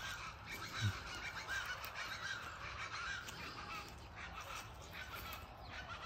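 Several birds calling over one another in a steady chorus of short, wavering calls, with one brief low sound about a second in.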